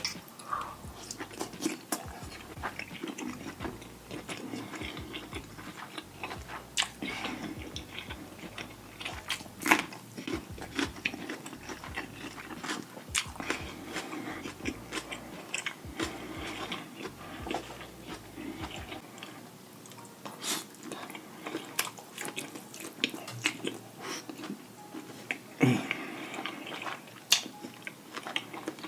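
Close-miked eating of deshelled seafood boil: repeated wet bites, chewing and mouth smacks, with many short sharp clicks.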